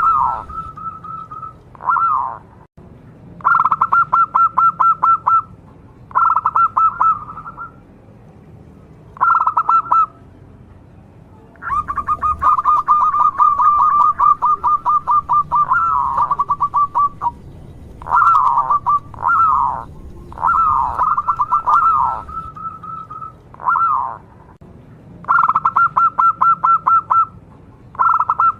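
Zebra dove (perkutut, local Indonesian type) cooing: about a dozen phrases of rapid, staccato repeated notes, each a second or two long. A longer run comes near the middle.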